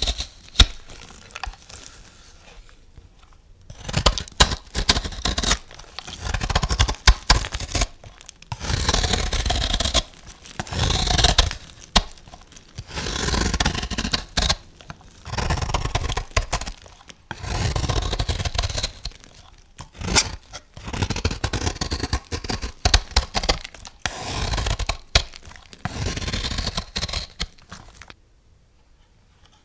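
A knife cutting through bars of soap with a crunchy, scraping crackle, one cut after another. There are about ten cuts, each lasting one to three seconds, with short pauses between them, and the last one stops shortly before the end.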